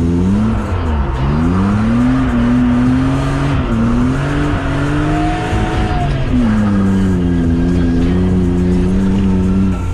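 BMW E36's straight-six engine heard from inside the cabin while drifting on a wet road, its revs swinging up and down under throttle and climbing. Just after six seconds in the revs drop sharply, then the engine runs steadily at lower revs.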